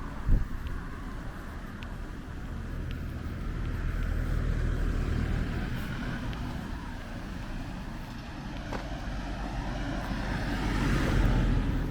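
Street traffic: the low rumble of passing cars swells about four seconds in and again near the end. A short thump sounds just after the start.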